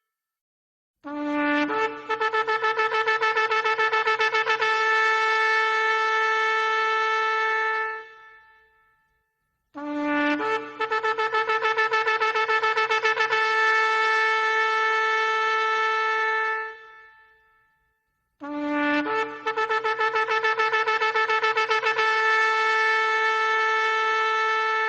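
Shofar blown in three long blasts of about seven seconds each, about a second apart. Each opens on a brief lower note, then jumps to a higher held note with a fast wavering.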